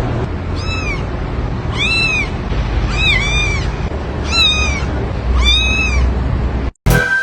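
A cat meowing repeatedly: about six short, high-pitched meows, each rising then falling, roughly a second apart, over a steady low rumble. The sound cuts off abruptly near the end.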